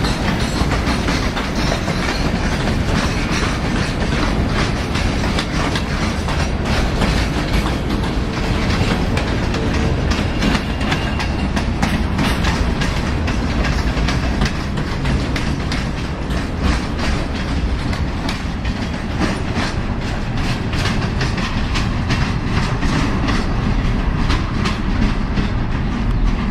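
A train rolling past, its wheels clicking steadily over the rail joints in a continuous rumble; the clicks come closer together in the second half.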